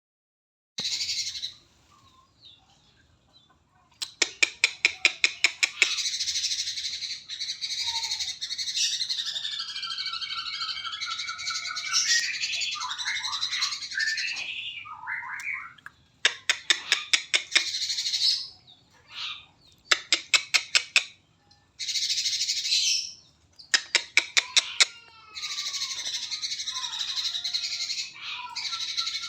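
A cucak cungkok singing a loud, chattering song in bursts, separated by short pauses. Three times the song breaks into rapid runs of sharp ticking notes, about seven a second. It is the kind of song played as mastering material for training other songbirds.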